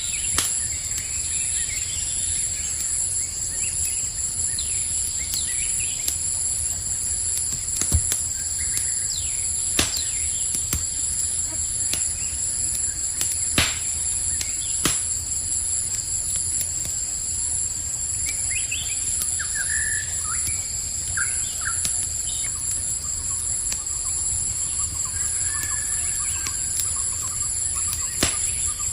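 Steady high-pitched cricket chorus over a crackling campfire, with a handful of sharp pops from the fire a few seconds apart. Short bird chirps come in about two-thirds of the way through.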